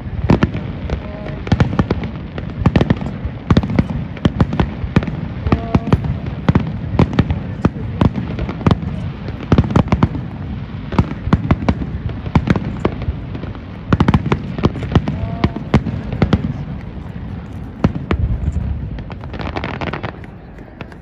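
Fireworks display: aerial shells bursting in rapid succession, a dense run of sharp bangs and crackles over deep booms.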